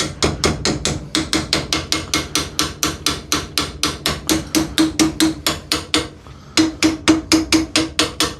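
Rapid, even hammer taps on a rust-seized Record G-clamp, about five a second, to break up the rust inside its screw thread; each tap gives a faint metallic ring. The tapping stops briefly about six seconds in, then starts again.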